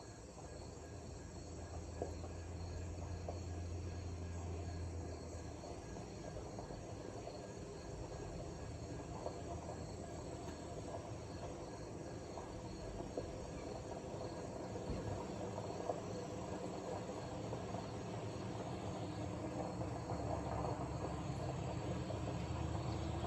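Crickets and other insects chirring steadily, with distant thunder rumbling low underneath. The rumble is strongest for the first few seconds and swells again in the second half.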